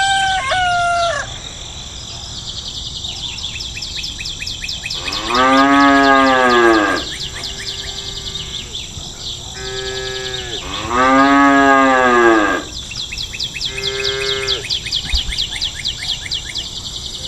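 Cattle mooing: two long calls that rise and fall in pitch, with shorter, higher calls between them, over a steady high chirring of insects.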